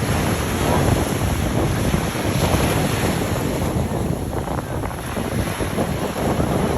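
Ocean surf breaking and washing in big waves, with wind buffeting the microphone.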